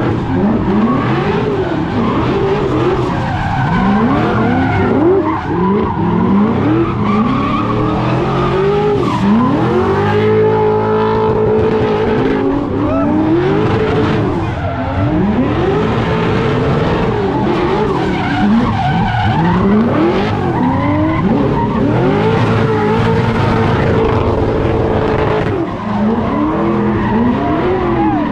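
A car doing donuts with its tyres skidding. The engine revs rise and fall every second or two, and twice, about ten seconds in and again past twenty seconds, it holds high revs for a couple of seconds.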